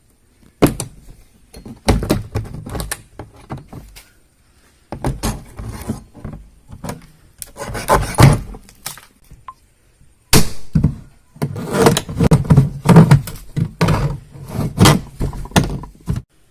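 Runs of rapid knocks and thuds as tools chip at the plastic body of an old washing machine to break off parts whose screws have rusted fast. Three bursts of knocking with short pauses between them.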